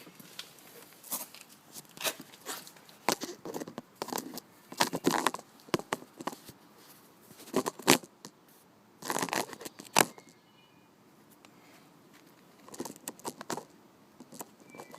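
Handling noise from a camera being set in place: irregular rustles, scrapes and knocks, some drawn out to about half a second. No engine is running.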